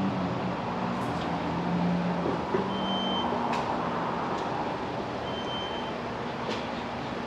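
Steady rushing noise over a low vehicle engine hum, with two short high beeps about two and a half seconds apart.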